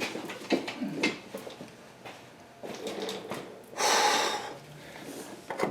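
Small metallic clicks and knocks of hand tools and car parts being handled under a car, with a short hissing, breathy rush about four seconds in.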